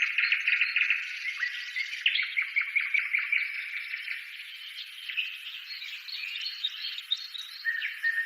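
Many small birds chirping and trilling at once, with rapid repeated notes and a few short held whistles.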